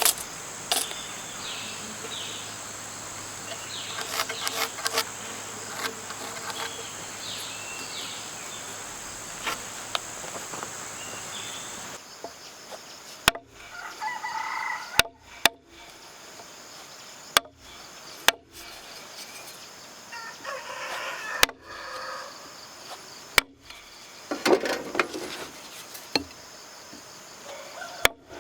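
Steady high-pitched insect buzz, like crickets or cicadas, with a few scattered light knocks, for about the first twelve seconds. Then it stops, and short snippets of outdoor sound follow, broken by several abrupt clicks and cut-offs.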